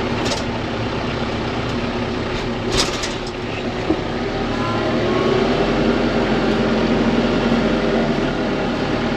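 TYM compact tractor's engine working under load while the root grapple drags a clump of brush out of a pile, heard from inside the cab with the air-conditioning blower running. A few sharp cracks come about three seconds in, and the engine gets a little louder about halfway through.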